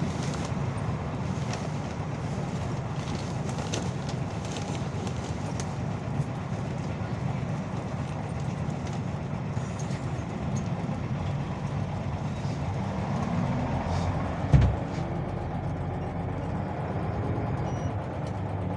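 Scania OmniLink CL94UB city bus running: a steady low engine drone with road noise, and a single sharp thump about three quarters of the way through.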